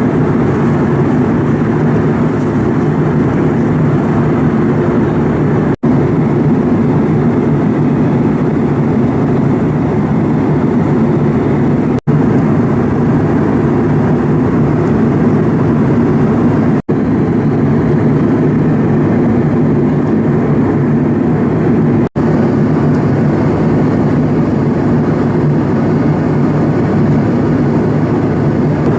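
Steady cabin noise of an airliner in flight: an even, low rushing drone of engines and airflow heard from inside the passenger cabin. It cuts out for an instant four times.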